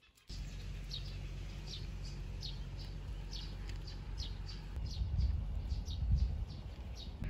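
A bird calling over and over, short high chirps that fall slightly in pitch, about two a second, over a steady low rumble that swells briefly near the end.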